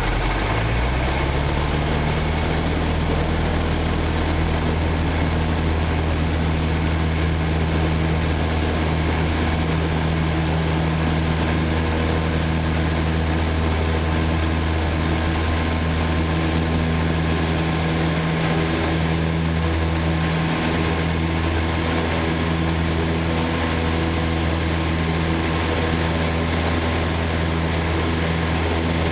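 A Citabria's four-cylinder piston engine and propeller rising in pitch as the throttle goes to full power about a second in, then running steadily at takeoff power.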